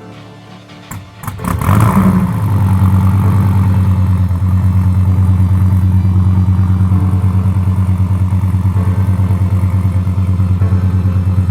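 Race car engine firing up about a second and a half in, then idling loudly and steadily with an even pulsing beat.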